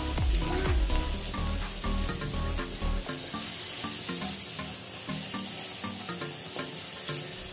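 Diced red onion, ginger and garlic sizzling in hot oil in a non-stick wok, stirred with a plastic slotted spatula that scrapes across the pan. Background music plays underneath.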